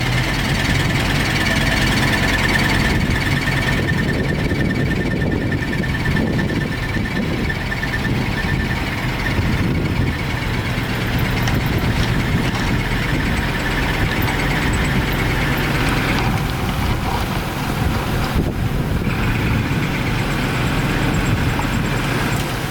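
Heavy diesel earthmoving machinery running steadily, with a high-pitched squeal over roughly the first nine seconds.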